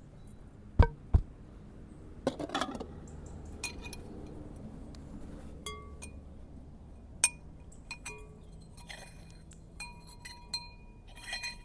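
Kitchenware clinking and knocking: two sharp knocks about a second in, then scattered light clinks, some ringing briefly, with a quick run of them near the end.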